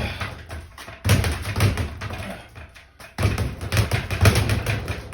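Bare-knuckle punches landing on a heavy punching bag: rapid runs of thuds in three flurries, the last starting about three seconds in.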